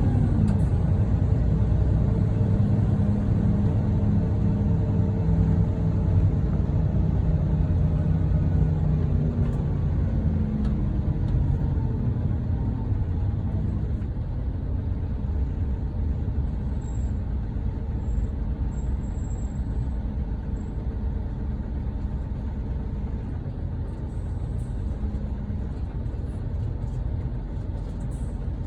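Hino Selega coach's diesel engine running, its pitch shifting up and down for a few seconds about a third of the way in before it settles to a steady, slowly fading run.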